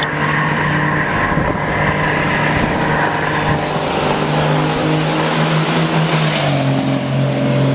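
Truck engine running steadily while driving, with road and wind noise; its pitch drops slightly about six and a half seconds in.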